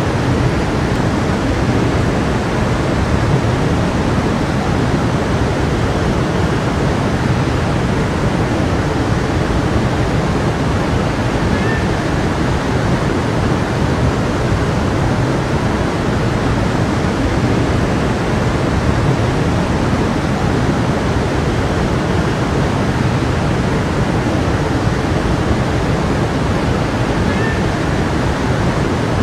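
A stream rushing steadily over rocks, a continuous even rush of water.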